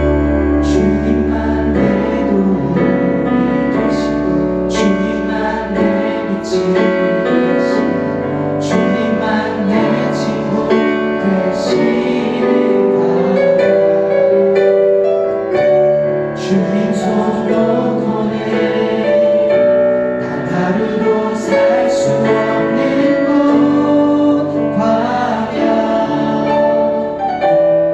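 Church praise team singing a Korean worship song together, with keyboard accompaniment.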